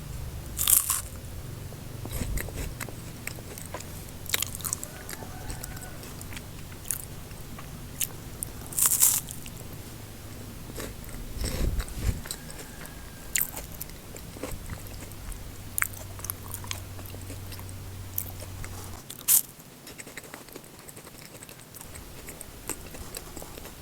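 Close-up eating sounds of a KitKat chocolate wafer bar: bites and chewing with scattered crisp crunches and crackles of the wafer.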